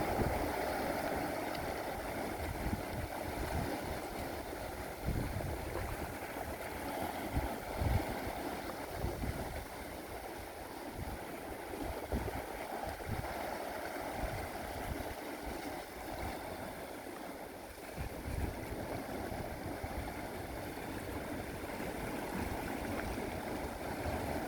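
Sea waves washing and surging against the shore in a steady rush, with irregular low gusts of wind buffeting the microphone.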